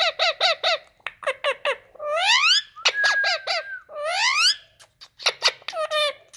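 Indian ringneck parakeet calling: quick runs of short high chirps, two long rising squawks, and a brief steady whistle about three seconds in.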